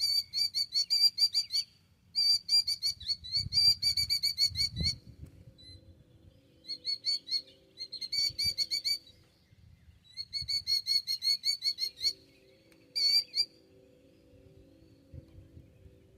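A sandpiper calling in runs of rapid, high, repeated notes, each run lasting a second or two, with short gaps between. These are the alarm calls of a parent bird in a broken-wing distraction display, trying to draw an intruder away from its nest. A faint steady low hum sits under the calls from about five seconds in.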